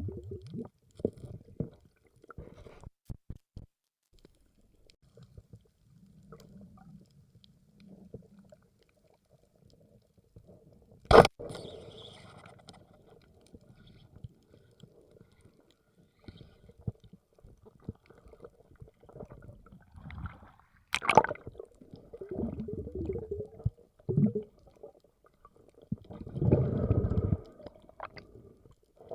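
Underwater sound through a camera housing: muffled gurgling and rumbling water noise in irregular bursts, broken by two sharp clicks, one about 11 seconds in and another about 21 seconds in.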